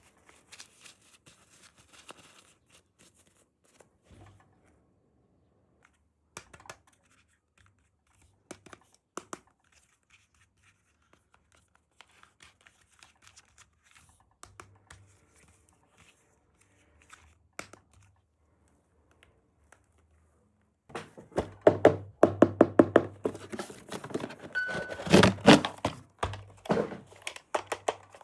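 Hands unpacking toys: scattered light taps and rustles, then from about 21 s a dense, louder run of packaging being crinkled and torn.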